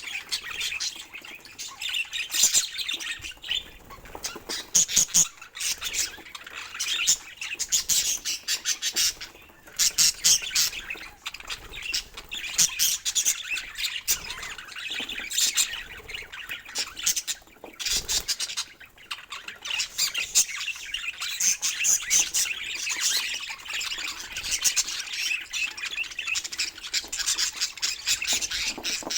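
Budgerigar chattering: a continuous run of rapid chirps, clicks and harsh calls with only brief pauses.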